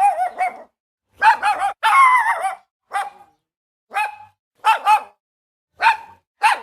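Boston Terrier barking, short sharp barks with gaps between them, some in quick pairs, and one longer wavering bark about two seconds in.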